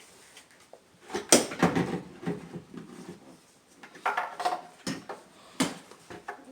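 Scattered knocks and clatter of engine parts and hoses being handled and fitted back into place, the loudest knock about a second in.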